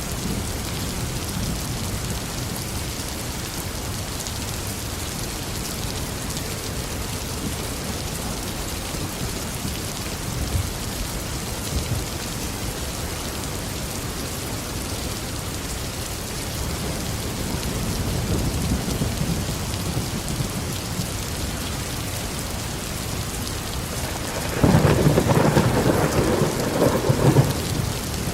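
Steady tropical rain falling, with thunder rumbling low in the background. Near the end a louder peal of thunder breaks and rolls for about three seconds.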